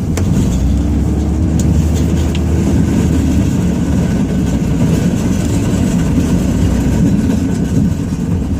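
Ram 2500's Cummins turbodiesel engine running steadily under load, heard from inside the cab, with an uneven low rumble as the truck and snowplow blade go over bumpy, frozen ground.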